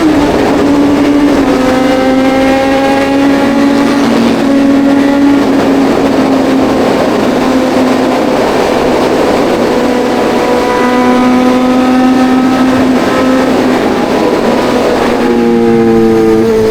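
Kawasaki Ninja 1100SX inline-four engine running while riding, over a rush of wind noise. The engine note sinks slowly in pitch for most of the stretch, then steps up sharply about fifteen seconds in as the revs rise.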